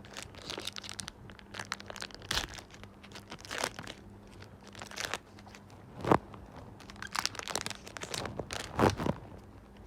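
Foil wrapper of a Pokémon Sun & Moon booster pack crinkling and tearing as it is opened by hand, in irregular sharp crackles.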